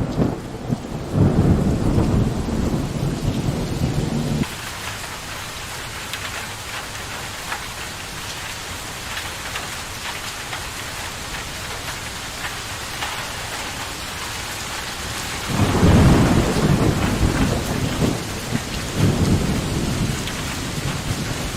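Steady rain falling, with thunder rolling low beneath it: a rumble for the first four seconds or so that cuts off suddenly, rain alone through the middle, then thunder rumbling again about two-thirds of the way in.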